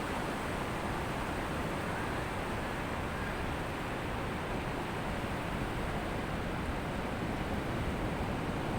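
Ocean surf on a beach: a steady rushing noise with no single wave standing out.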